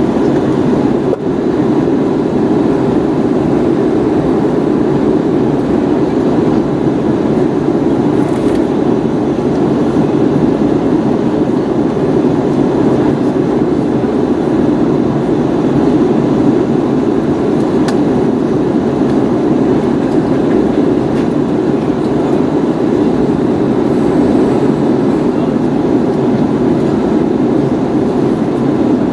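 Steady engine and airflow noise heard inside the cabin of an Airbus A321neo in flight, a constant low rumble.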